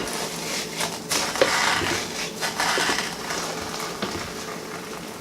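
Spatula stirring and stabbing Rice Krispies cereal through stiff, sticky melted marshmallow in a pot, making a run of irregular noisy strokes.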